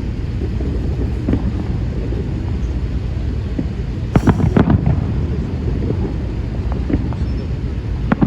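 Fireworks salute: a steady low rumble of bursts, with a quick cluster of sharp bangs about four seconds in and another just before the end. Wind buffets the microphone.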